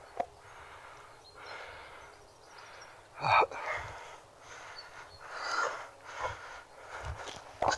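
A person walking outdoors, with soft footsteps and rustling through vegetation and breathing, in irregular swells about once a second, and one sharper, louder step or brush about a third of the way in.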